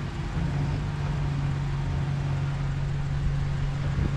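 Ram 1500 pickup's engine running steadily at low revs as the truck crawls slowly over rocks, its hum holding one even pitch from about half a second in.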